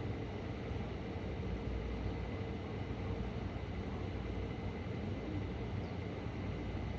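Steady low rumble and hiss with a faint steady hum running under it; no cat calls stand out.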